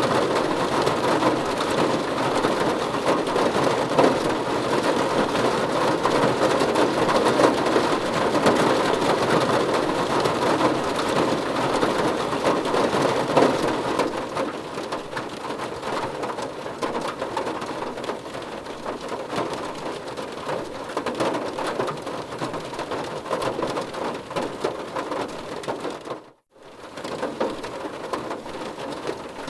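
Steady rain falling, a dense even hiss that eases somewhat about halfway through and cuts out for a moment a few seconds before the end.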